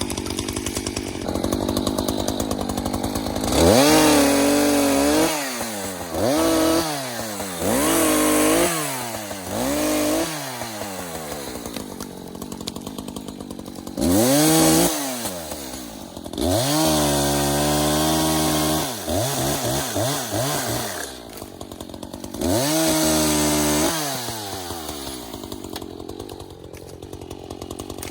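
Echo CS-590 two-stroke chainsaw idling between repeated revs: about seven times the engine climbs to high revs and drops back, some as quick blips and a few held for a second or two.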